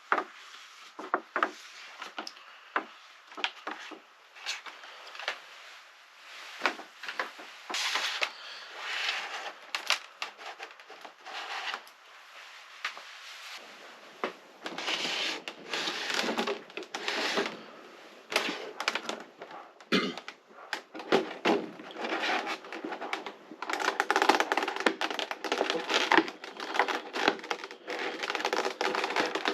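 Cardboard box and plastic packaging of a boxed statue being opened and handled: scattered sharp clicks and taps at first, then long stretches of crinkling and rustling.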